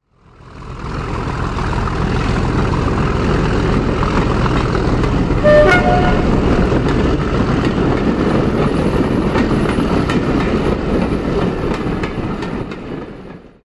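A train running with a steady rumble that fades in and fades out, and a short two-tone horn, a lower note then a higher one, sounded about halfway through as the loudest moment.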